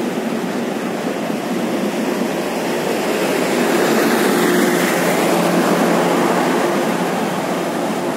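Economy-class passenger coaches of a train rolling past at close range: a steady rumble of steel wheels on the rails, swelling slightly in the middle.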